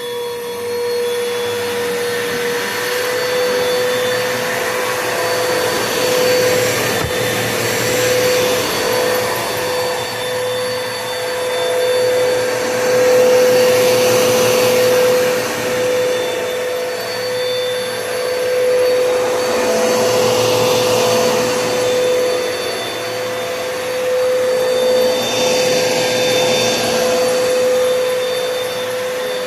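Bissell PowerForce Bagless 6583 upright vacuum cleaner running with its 10-amp motor, a steady motor hum under the rush of air. The rush swells and eases every few seconds as the vacuum works over carpet.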